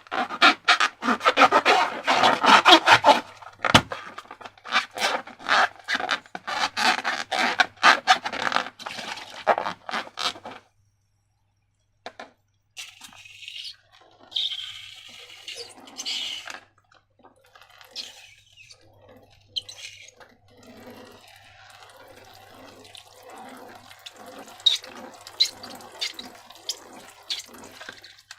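Wet slime squelching and crackling as it is squeezed and worked, with dense popping for about ten seconds. After a short pause comes a hissing stretch, then slower, softer squelches.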